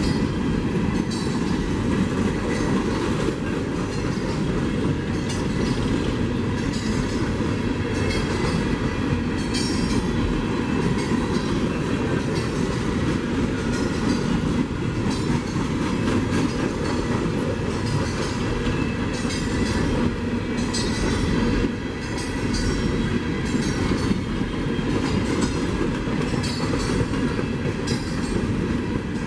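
A train rolling past in a long steady run, its wheels clicking and clacking over the rail joints.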